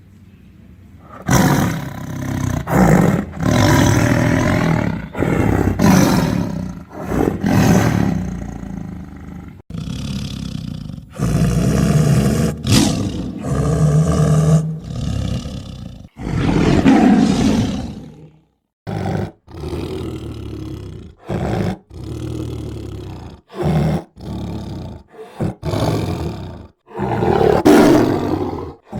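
Tiger roaring: a loud, continuous run of deep roars one after another, starting about a second in, several of them cutting off abruptly as if edited together.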